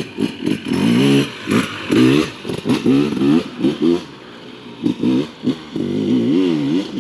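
Two-stroke Husqvarna TE300 TBI enduro engine with an FMF pipe, revving in a run of short throttle bursts, its pitch climbing and dropping with each blip and warbling in a longer held stretch near the end.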